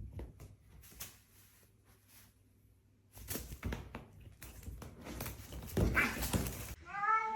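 Scuffling and knocking noises, then near the end a cat meows once, the call bending in pitch.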